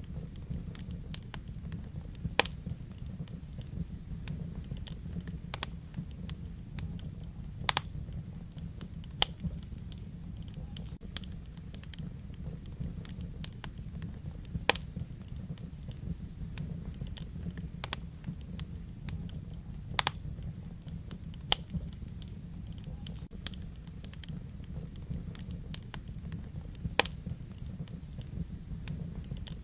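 Wood fire burning in a fireplace: a steady low rumble of the flames with irregular crackles and sharper pops from the logs.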